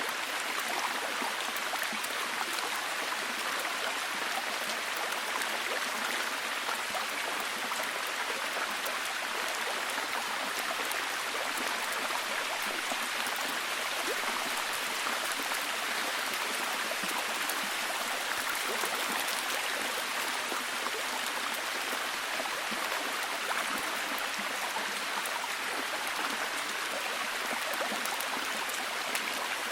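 Heavy, steady rain falling, a dense even hiss with many fine drop patters.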